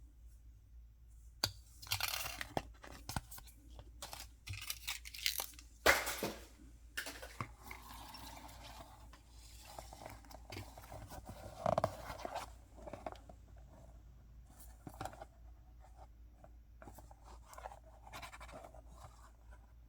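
Toy packaging being torn open and handled by hand: irregular crinkling, tearing and scraping, with a few sharper snaps about 6 and 12 seconds in.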